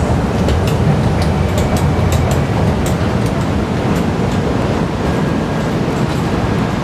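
Steady low rumble of a Singapore MRT train running at the station platform, carried through the open station, with a few light sharp clicks over it in the first three seconds.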